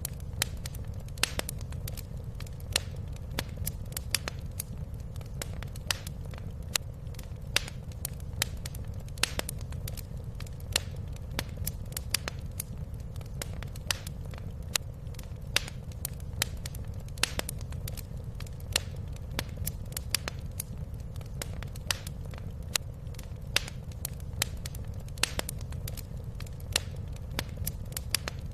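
Wood fire crackling and popping in a fireplace: many sharp, irregular pops, several a second, over a steady low rumble of the burning fire.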